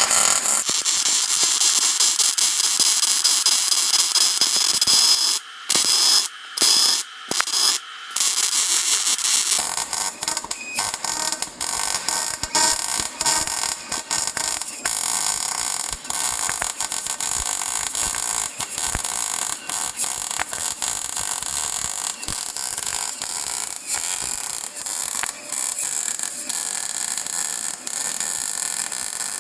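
Electric welder running beads on steel bracing bars, a steady hiss. It starts and stops in a few short bursts about six to nine seconds in, then settles into a long continuous weld.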